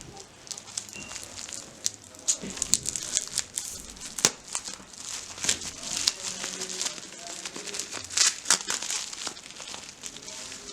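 Crinkling and rustling of wrapping being handled, with irregular sharp crackles and a few louder snaps.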